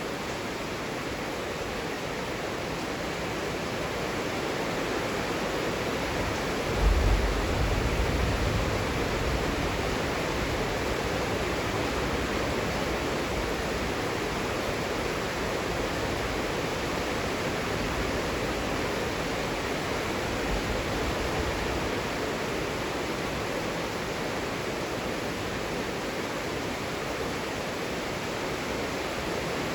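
Heavy rain falling steadily as an even, unbroken hiss. About seven seconds in, a brief low rumble swells and fades over a couple of seconds.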